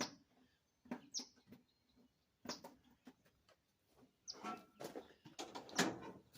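Small birds chirping: short, high chirps every second or so, among scattered clicks and rustles.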